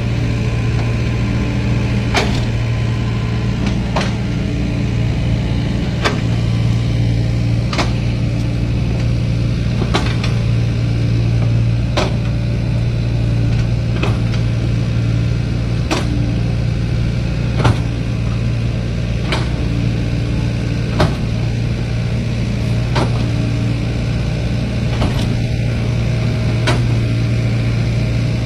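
Heavy diesel engine running steadily with a deep hum, with a sharp tick about every two seconds.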